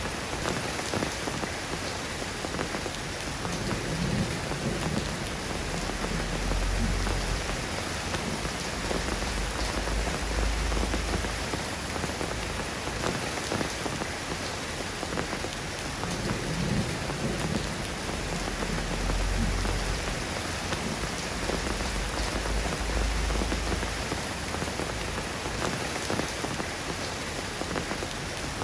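Steady rain falling and pattering on surfaces, an even hiss of drops, with a few low rumbles swelling and fading now and then.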